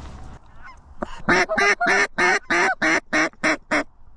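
A goose call blown in a rapid series of about ten loud honks, roughly four a second, starting about a second in, the last few notes shorter.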